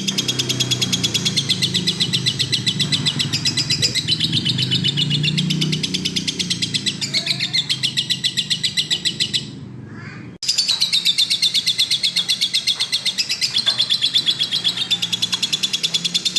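Lovebird singing in a long, rapid chattering run of evenly repeated high chirps, breaking off briefly about ten seconds in before starting again.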